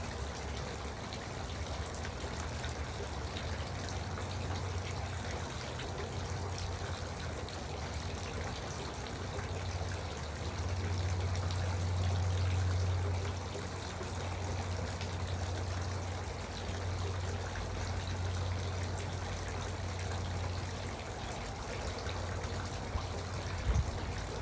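Garden water fountain trickling and splashing steadily, with a low rumble underneath that swells for a few seconds midway.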